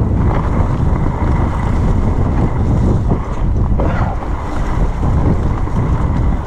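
Wind buffeting the camera microphone with a loud, steady rumble during a fast mountain-bike descent on a wet, slippery trail, with a few knocks from the bike over the ground.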